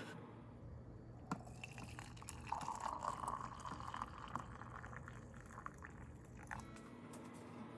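Downpour of rain on a roof, with water dripping and running; the rushing grows stronger for a few seconds in the middle.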